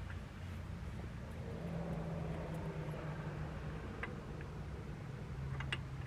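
A few light metallic clicks and taps from hand work on the car's rear wheel-hub parts, over a low steady hum. Most of the clicks come near the end.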